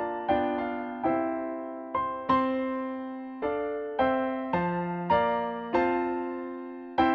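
Piano playing slow chords, each struck and left to fade, about one a second.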